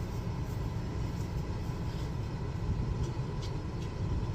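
Buick's engine idling steadily with the air conditioning running, as a low steady rumble, with a few faint ticks near the end.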